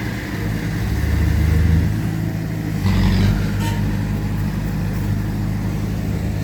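Heavy diesel engines of earthmoving machinery running under load, the engine note shifting up and down, with a short louder rush of noise about three seconds in.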